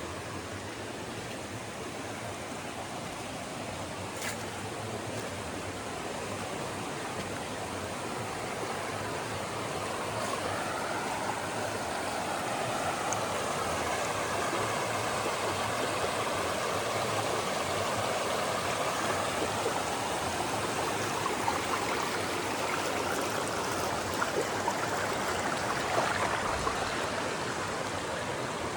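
River water running and rushing steadily over rocks, growing louder about a third of the way in, with a few faint light clicks over it.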